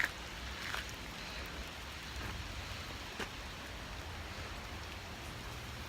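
Steady rain falling, with a few sharper drops or taps now and then.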